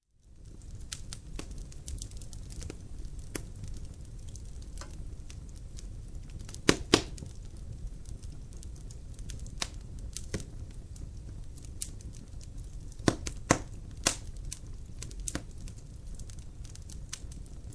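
Wood fire crackling in a fireplace: a steady low rumble of flames with sharp pops and snaps scattered irregularly throughout. The loudest are a pair about seven seconds in and a cluster around thirteen to fourteen seconds. The sound fades in from silence at the very start.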